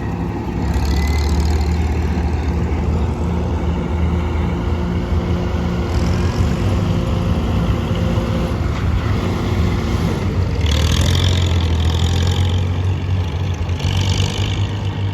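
Vintage tractor engine running steadily with a low, even hum, swelling louder about a second in and again about ten seconds in.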